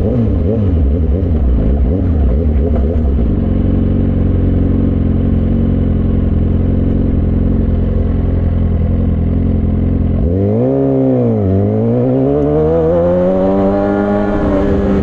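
Suzuki GSX-R600 K6 inline-four with a straight-pipe exhaust and no catalytic converter, running steadily under the rider, then about ten seconds in the revs drop sharply and climb again as it accelerates, easing off slightly near the end.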